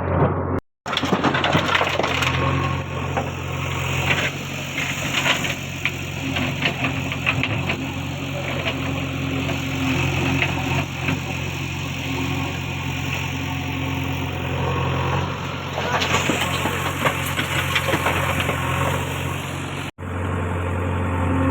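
Diesel engine of a JCB 3DX backhoe loader running steadily at work, its note shifting a couple of times, with scattered clanks and knocks. The sound cuts out briefly near the start and near the end.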